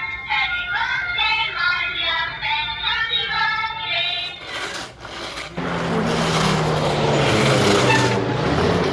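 Battery-operated toy truck playing its electronic sounds through a small speaker: a short, high-pitched synthesized children's song, then, about five and a half seconds in, a noisy engine-like sound effect with a low steady hum.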